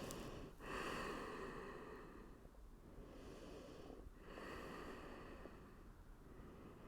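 Faint, slow breathing of a person resting in a yoga pose: a few long, soft breaths with short pauses between them.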